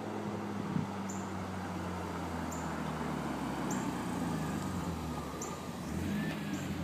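BMW S52 inline-six with a Borla cat-back exhaust running at a steady low note, heard from a distance. Its pitch eases down a little partway through.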